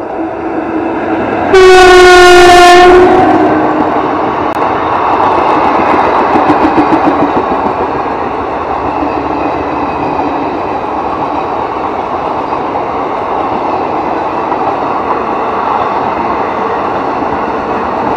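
Indian Railways electric locomotive sounding its horn once, a loud single-pitched blast of about a second and a half. Then the passenger coaches run past, with a steady rush and the clatter of wheels on the rails.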